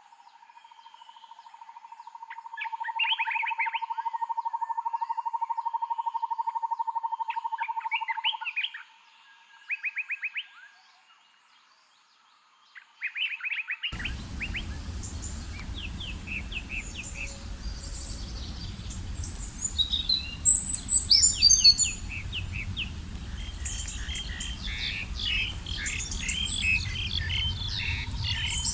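Songbirds chirping in short phrases, with a long, even trill at one pitch running for several seconds near the start. About halfway through, the sound switches abruptly to a busier chorus of bird calls over a steady background rush.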